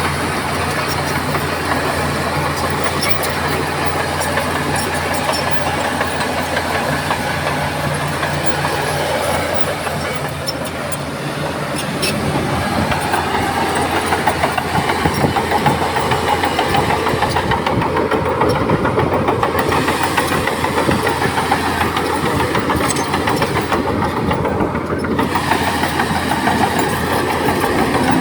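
Heavy diesel earthmoving machinery running: a steady engine drone that grows louder and rougher about twelve seconds in, its pitch rising and falling.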